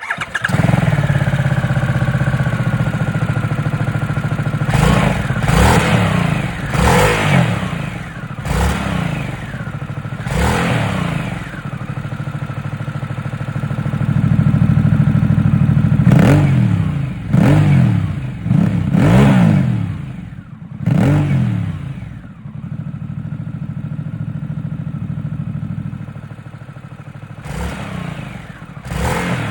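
Harley-Davidson Sportster S's 1250 cc V-twin engine idling and revved in repeated short blips through a Dr. Jekill & Mr. Hyde valved exhaust. About three quarters of the way through it settles to a quieter steady idle, then the revving picks up again near the end.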